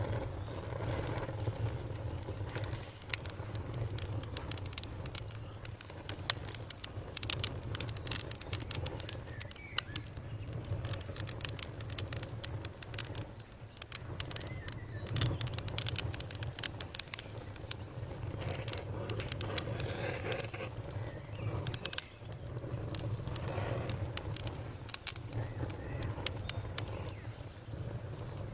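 Wood fire crackling with many sharp snaps, over a steady low hum, with birds calling, among them what sounds like dove cooing.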